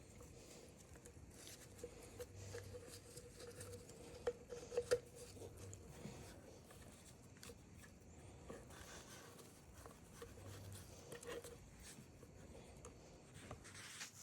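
Faint small clicks and taps of tools and plastic and metal chainsaw parts being handled during disassembly, with a few sharper taps about four to five seconds in.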